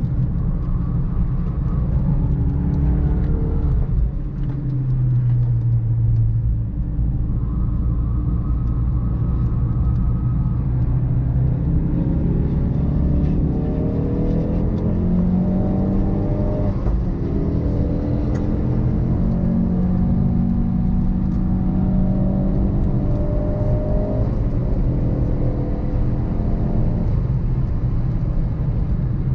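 Ford Focus RS Mk3's 2.3-litre turbocharged four-cylinder engine under hard acceleration on track. It revs up in repeated rising sweeps, the pitch dropping back at each gear change, with a steadier lower drone for a few seconds early on.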